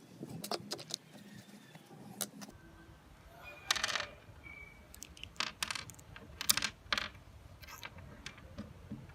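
Irregular clicks and clinks of small metal parts being handled, with a few louder knocks that ring briefly, the loudest about four seconds in and again two and a half seconds later.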